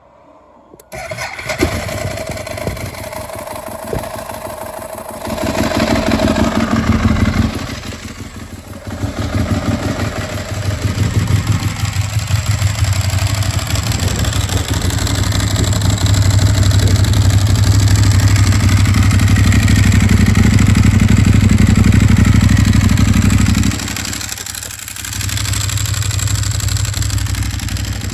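Ducati 1098S's 1099 cc L-twin engine, breathing through aftermarket Termignoni exhausts, starting about a second in. It is then revved up and down and held at raised revs for several seconds, with brief drops in revs around a third of the way in and again near the end.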